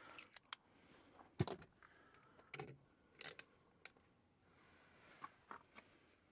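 A few scattered light knocks and clicks, the loudest about a second and a half in.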